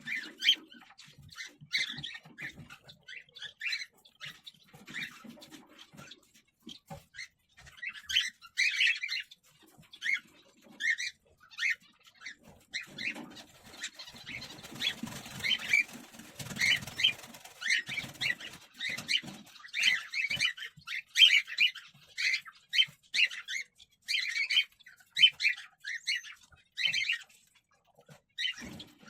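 Cockatiels giving rapid series of short, scratchy chirping calls, with a stretch of rustling and shuffling in the middle.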